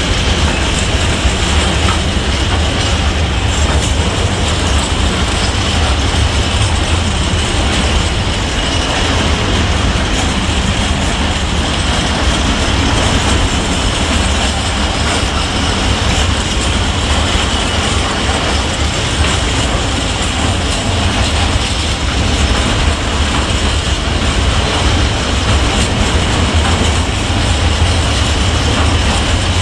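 Container flat wagons of an intermodal freight train rolling past at speed: a steady rumble of wheels on rail, with a steady high tone above it.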